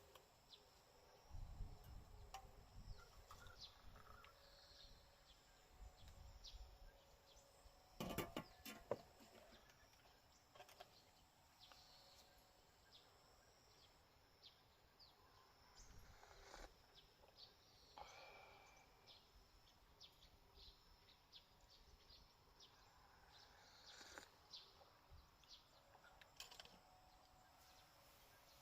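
Near silence: faint outdoor ambience with scattered short, high bird chirps, and a few soft knocks about eight seconds in.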